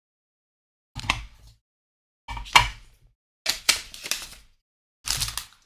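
Small plastic parts being handled, coming in four short bursts of clicking and rattling with silence between them.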